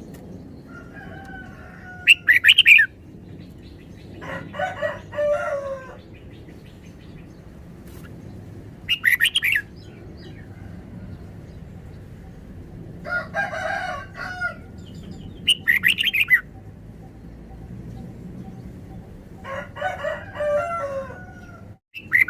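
Red-whiskered bulbul singing short, bright, warbling phrases every six or seven seconds. Between them comes a lower, longer call, three times.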